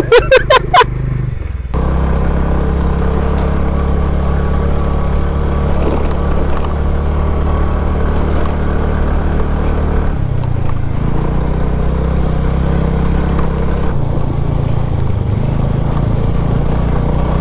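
A two-wheeler's single-cylinder engine running steadily while riding on a rough track. It picks up about two seconds in, eases briefly around ten seconds and changes pitch again near fourteen seconds.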